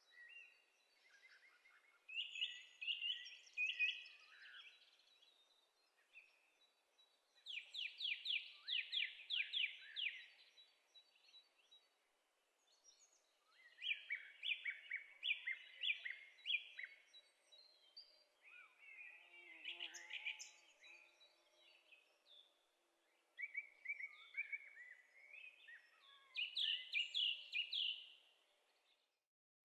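A songbird singing: phrases of rapid notes, each two to three seconds long, repeated every few seconds over faint outdoor background.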